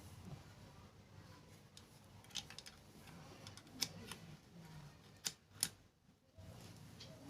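A few sharp, separate clicks and taps from hand work on a sewing machine's mechanism. The two loudest come close together a little after the middle.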